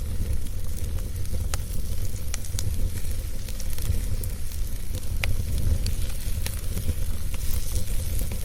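Wood fire burning with a steady low rumble and hiss, broken by sharp crackles and pops scattered every second or so.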